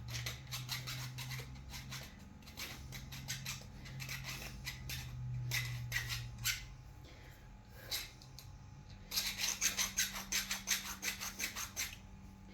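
Hand file scraping back and forth over a workpiece, shaping it smoother: a few strokes a second at first, then a quicker run of strokes near the end, over a low steady hum.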